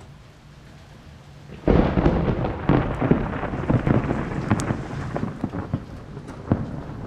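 A close thunderclap: after a quiet stretch of rain hiss, a sudden loud crack about a second and a half in, followed by crackling and rumbling that slowly fades.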